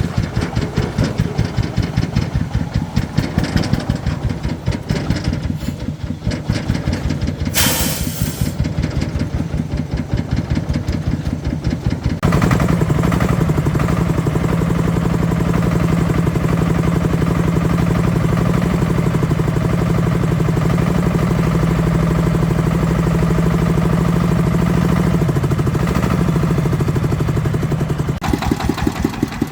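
Tractor engine running with a steady chugging beat, louder and higher-pitched from about twelve seconds in, then dropping back near the end. A short hiss comes about eight seconds in.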